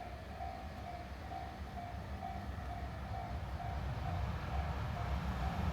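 Level-crossing warning bell ringing at an even beat of about two rings a second, over the low rumble of an approaching freight train that grows steadily louder.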